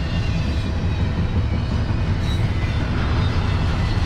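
CSX intermodal freight train's double-stack well cars rolling past, a steady low rumble of wheels on rail.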